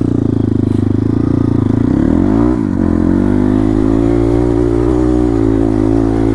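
Dirt bike engine running hard under throttle. About two and a half seconds in, the revs drop briefly and then climb back up, as in a gear change or a blip off the throttle.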